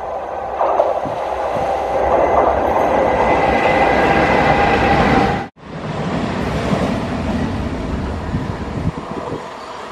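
WAG-7 electric locomotive hauling a freight train of open wagons, drawing near at speed: the wheel and rail noise, with a steady high tone, grows louder. About halfway through it cuts off abruptly and gives way to the quieter running of a suburban EMU electric train.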